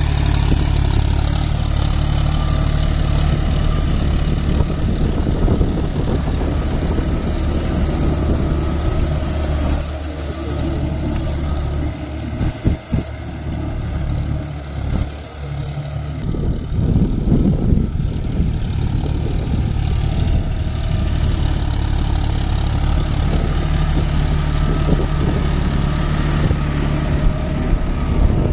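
John Deere 5050D tractor's three-cylinder diesel engine running steadily, dropping in level for a few seconds near the middle before it picks up again.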